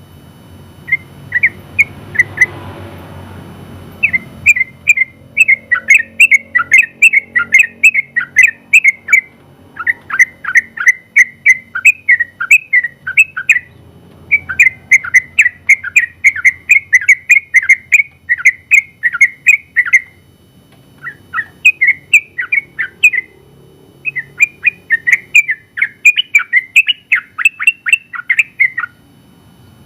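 Sooty-headed bulbul (trucukan) singing long runs of quick chattering notes, phrase after phrase of several seconds, with short breaks between them.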